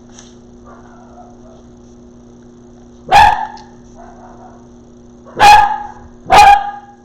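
Dog barking indoors: three loud single barks, the first about three seconds in and the last two about a second apart near the end, over a faint steady electrical hum.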